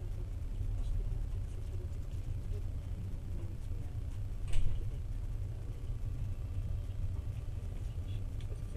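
Passenger train carriage running, heard from inside the car as a steady low rumble of wheels on the rails, with one sharp clank about four and a half seconds in.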